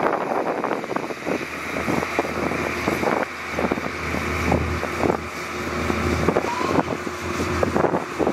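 Wind buffeting the microphone with crackles, over a steady low engine hum.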